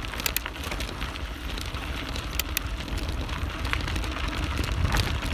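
Wind buffeting a bike-mounted phone's microphone and bicycle tyres rolling over a dry dirt trail, growing louder as the bike picks up speed, with a few sharp clicks and rattles.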